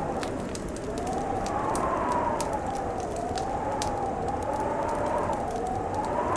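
Wind howling in a rising and falling moan, over a crackling wood fire with scattered sharp pops.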